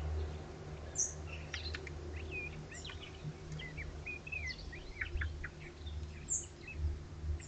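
Small garden birds calling: a scattered run of short, high chirps and quick twittering notes, over a steady low rumble.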